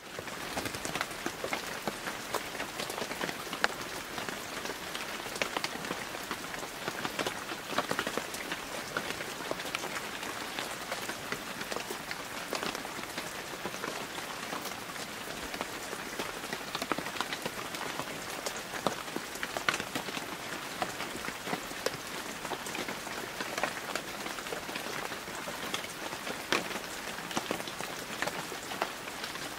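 Heavy, steady rain falling on a wet hard surface, a dense hiss made of many separate drop impacts.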